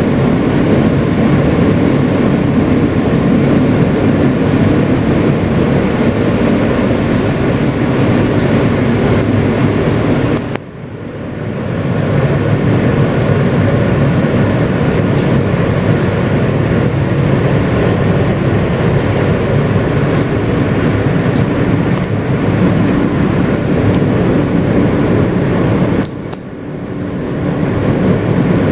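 Kawasaki R160B subway car with Siemens propulsion running at speed, its wheels and motors giving a loud, steady rumble heard from inside the car. The noise drops suddenly about ten seconds in and again near the end, each time building back up over a second or so.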